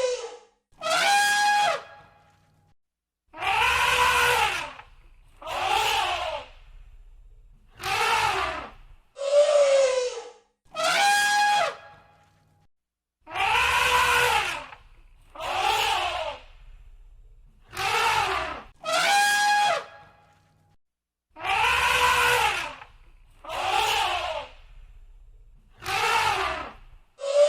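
Elephants trumpeting: a string of loud, brassy trunk calls about one every two seconds, some holding a steady pitch and others falling. The same short sequence of calls repeats about every eight to nine seconds.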